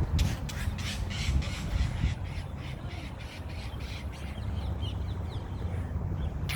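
Blue jay giving a rapid string of harsh scolding calls in the first two seconds, with fainter calls after, over a steady low rumble.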